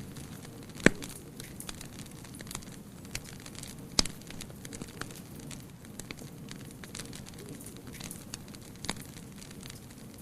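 Wood fire crackling steadily, with scattered sharp pops, the loudest about a second in and again near four and nine seconds in.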